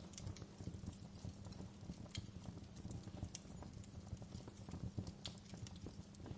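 Wood fire crackling: irregular small pops and snaps, a few sharper ones, over a low steady rumble.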